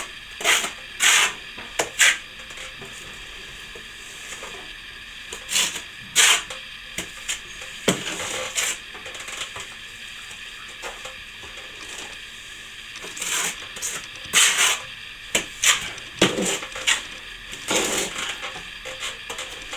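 Steel plastering trowel scraping and clinking against plaster and the hawk, in irregular short strokes.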